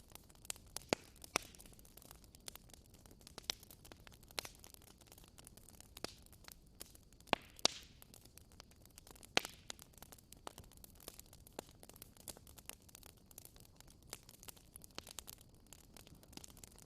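Campfire crackling: burning wood giving irregular sharp pops and snaps over a low, steady hiss, with a few louder pops scattered through.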